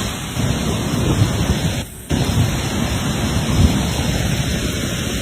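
Swollen flash-flood river rushing, a steady wash of noise heavy in deep rumble, with a brief dip about two seconds in.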